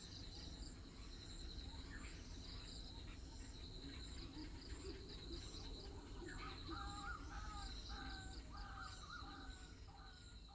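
A crow cawing, a run of about half a dozen short harsh calls starting a little past the middle, over steady pulsed chirping of insects.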